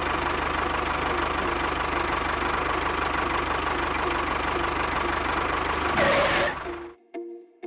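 A small engine, which the material points to as the DIY mini tractor's engine, runs steadily with a fast, even chugging. It surges briefly about six seconds in, then shuts off and dies away.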